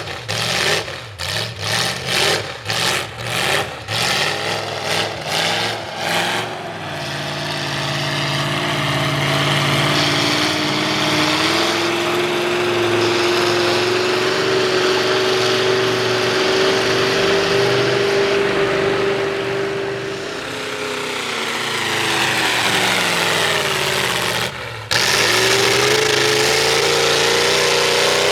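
V8 Ford mud truck running through open upright headers: a string of quick throttle blips, then the engine held at high revs with its pitch slowly climbing. About twenty seconds in the revs ease down, and after a brief break the engine revs up again near the end.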